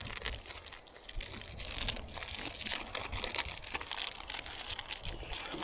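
Plastic packaging handled at close range, crinkling and rustling in a dense run of small irregular clicks and crackles.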